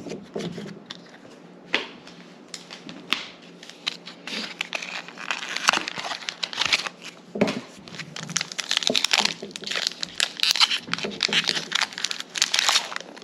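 Foil wrapper of a Pokémon booster pack crinkling and tearing as it is handled and ripped open. The crackling is sparse at first and turns dense and busy about five seconds in.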